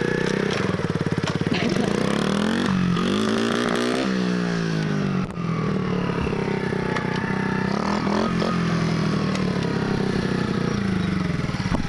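Small gas dirt bike's engine running as it is ridden around, revving up and easing off, its pitch rising and falling twice as it goes by.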